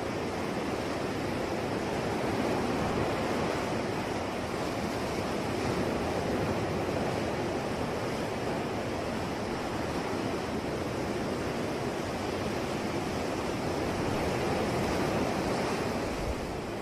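Sea waves washing onto a shore, a steady rushing surf that swells and eases slowly.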